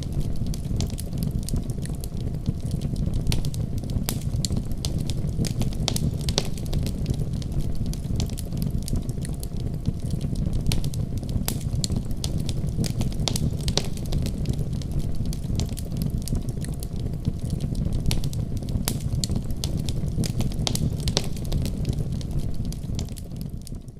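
Wood fire crackling in a fireplace: frequent irregular sharp pops over a steady low rumble, fading down near the end.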